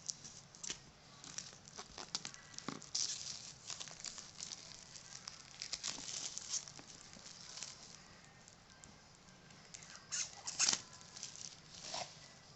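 Packaging being handled: crinkling and rustling with scattered clicks and taps, in irregular bursts, busiest in the middle and again near the end.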